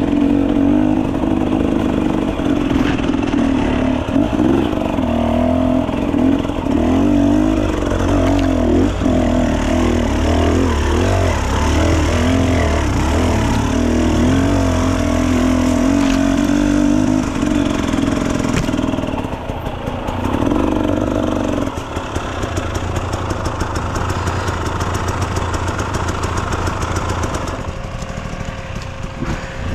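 Enduro dirt bike engine running under varying throttle, its pitch wandering up and down. About twenty seconds in, the engine note drops lower and quieter.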